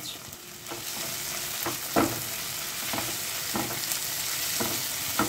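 Onions, tomatoes and green chillies with ginger and garlic paste sizzling in mustard oil in a nonstick pan as they are stirred. The sizzle grows louder about a second in, and the stirring utensil scrapes and knocks against the pan several times.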